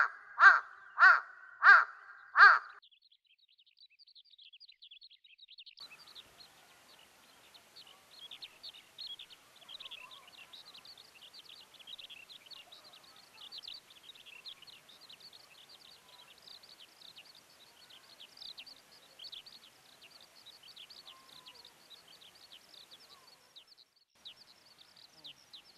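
Large-billed crow giving four loud, harsh caws in quick succession, each about 0.7 s apart. They are followed by faint, rapid, high-pitched chirping of small birds.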